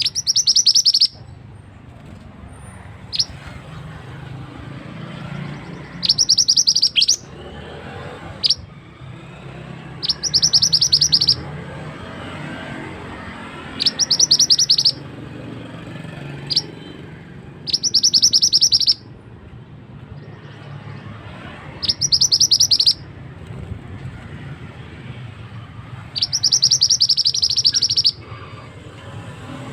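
Mantenan bird singing: rapid high trills about a second long, repeated every four seconds or so, with single sharp notes in between, over steadily flowing water.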